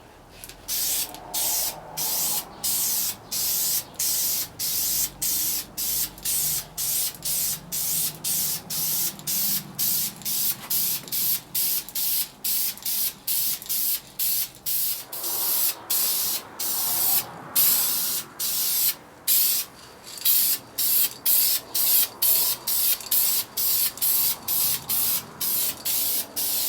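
Matte black Plasti Dip rubber coating being sprayed in short bursts, about two a second, with brief gaps between them.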